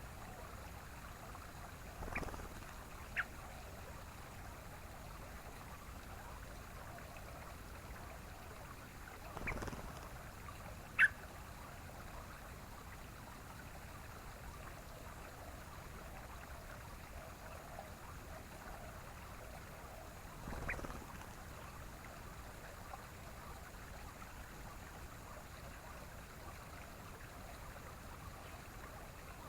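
Steady, faint running-water hiss, like a stream, with a handful of brief isolated sounds: a few short soft bumps and two or three sharp short notes, the loudest about eleven seconds in.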